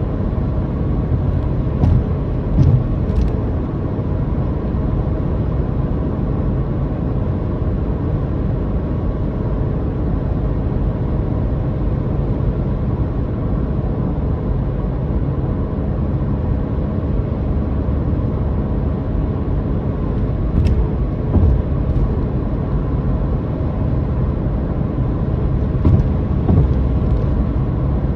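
A car being driven: a steady engine drone and road rumble, with a few brief knocks about two to three seconds in, again a little past twenty seconds, and near the end.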